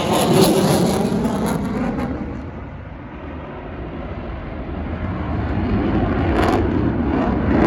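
Military jet engine noise as the aircraft passes: a loud roar that fades about three seconds in, then builds again as it comes back around.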